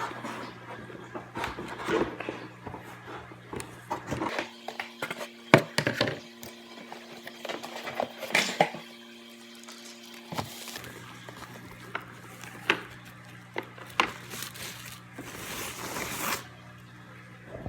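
Cardboard box and plastic packaging being handled during unboxing of a coffee maker: scattered knocks, clicks and rustles, with a longer rustle near the end, over a steady low hum.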